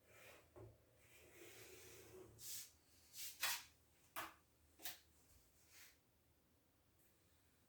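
A handful of faint, short clicks and knocks, about six, spread unevenly over a few seconds in a quiet room.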